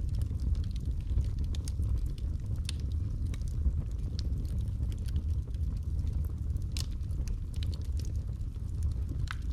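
Wood fire burning in a fireplace: a steady low rumble of flames with scattered sharp crackles and pops, a few louder ones about three seconds in, about seven seconds in, and near the end.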